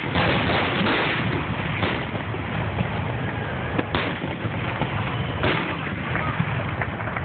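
Fireworks finale: a rapid barrage of overlapping bangs and crackle, with sharper single bangs about four and five and a half seconds in.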